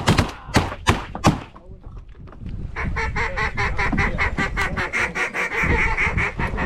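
Geese honking: short sharp honks and clucks for the first second and a half, then after a brief lull a fast, steady run of honking from about three seconds in.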